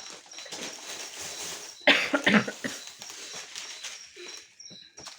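Plastic candy packets crinkling and rustling as they are handled, with a louder burst of crinkling about two seconds in.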